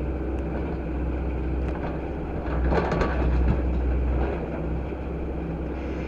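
Earthmoving tractor's engine running steadily as the machine works clearing large stones, louder for a moment about three seconds in.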